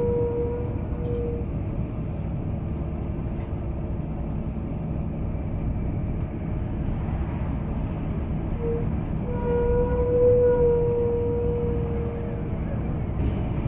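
Steady low rumble of a moving vehicle. A held whistle-like tone sounds over it at the start, again briefly around the middle, and for a few seconds in the second half.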